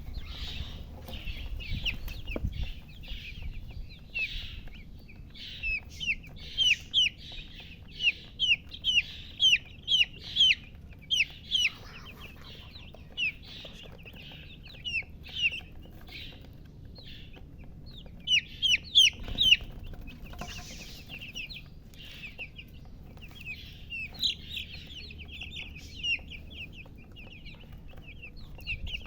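Domestic chicks peeping: many short, high-pitched calls that slide down in pitch, coming in quick runs, with the loudest runs in the middle and another short loud run about two-thirds through.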